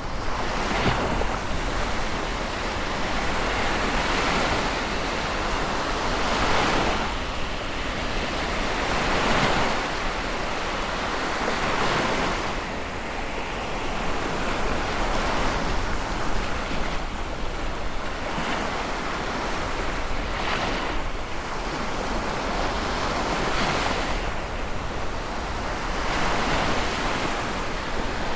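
Sea waves breaking and washing on the shore, a steady rushing surf that swells and falls back every few seconds.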